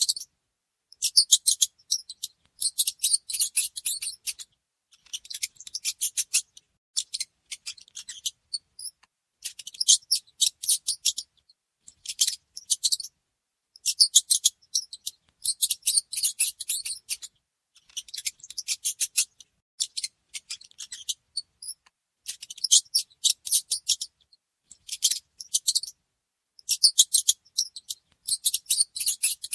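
A mouse making rapid, high, dry scratching clicks in bursts of a second or two, with short pauses between.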